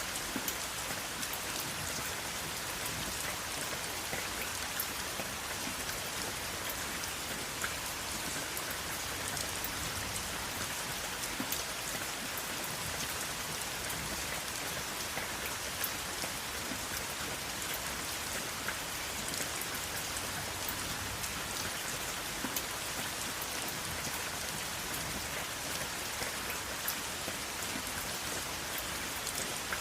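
Steady rain falling on a surface, an even hiss with scattered sharp drop ticks and no thunder.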